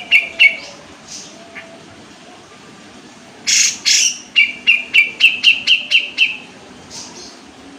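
Kapas tembak songbird singing. A few sharp notes come at the start, then a little over three seconds in two loud, harsh notes lead into a fast run of about ten clear chirps, about five a second, lasting some two seconds.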